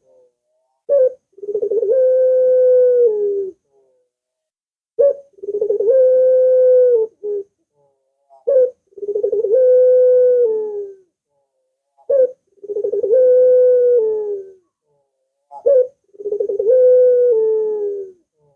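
Barbary dove (puter) cooing: five repeated phrases about every three and a half seconds, each a short note followed by a long held coo that drops in pitch at the end.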